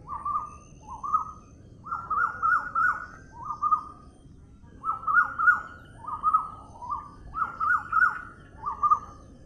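A bird calling over and over: short falling notes in clusters of two to four, each cluster about a second apart.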